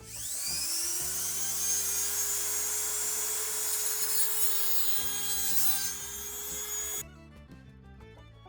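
A small power cutting tool spins up with a rising whine and grinds through the steel spiral-shank nail pins set in a wooden knife handle, cutting them off; the grinding stops abruptly about seven seconds in. Background music plays underneath.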